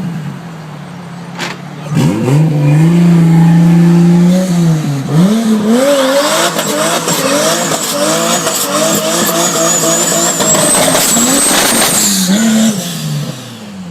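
Tuned car engine run hard: it revs and holds a high note, then its pitch climbs and drops back again and again for several seconds while a thin high whine rises above it, and the engine settles near the end.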